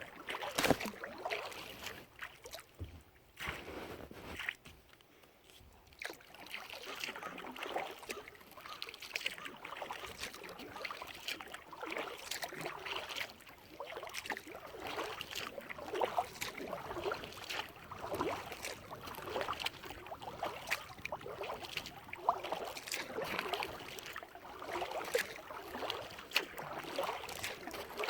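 Kayak paddle dipping and pulling through lake water, with splashing and dripping at each stroke, and a brief lull about five seconds in.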